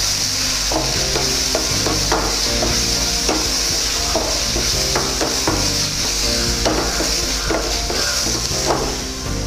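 Chopped vegetables sizzling in hot oil in a frying pan as they are stir-fried, with a steady hiss and irregular knocks and scrapes of the spatula against the pan.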